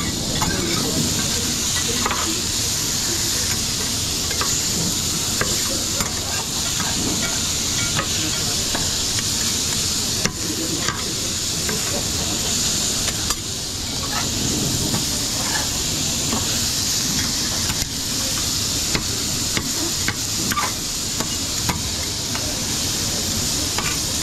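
Food frying in a hot pan with a steady sizzle, while a metal utensil clinks and scrapes against the pan now and then.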